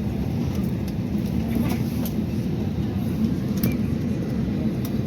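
Steady low rumble of airliner cabin noise as the plane taxis, with a few faint ticks over it.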